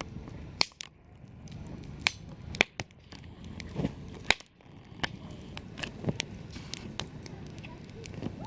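Campfire crackling: burning wood gives off irregular sharp pops and snaps, a few of them loud, over a low steady rumble.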